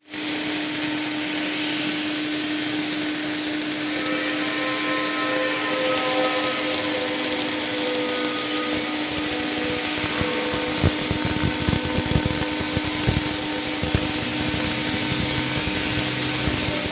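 Pulsed MIG welding arc of a Kemppi Max Speed process running continuously: a steady hissing buzz with an even hum, and a stretch of crackling pops a little past the middle.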